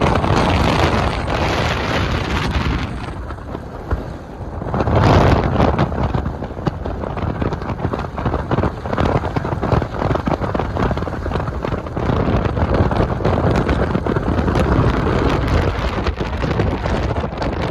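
Strong wind blasting over the microphone of a moving motorcycle, surging about five seconds in, with rain pattering through it.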